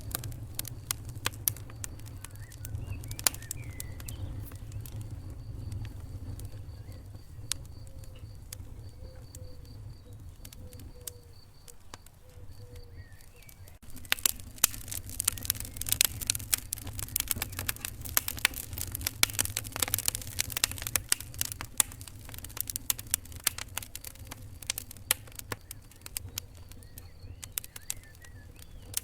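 Wood fire crackling in a fireplace: a low rumble of flame under many sharp pops and snaps. The crackling turns suddenly denser and louder about halfway through.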